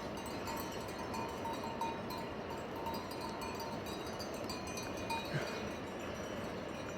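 Bells on a flock of sheep and goats clinking and ringing on and off, over the steady noise of the moving flock. One short animal call about five seconds in.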